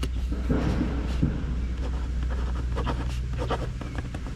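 Pen writing on a paper index card: a run of short scratching strokes over a steady low hum.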